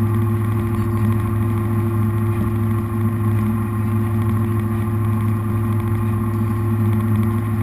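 Jet boat's V8 engines running at a steady low speed, a constant low drone with no revving.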